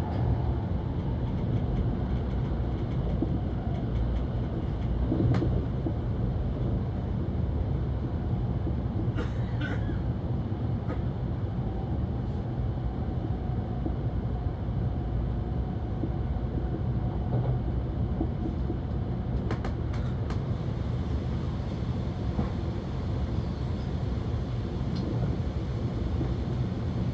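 Kyushu Shinkansen 800 series train running, heard from inside the passenger car: a steady low rumble with a few faint clicks.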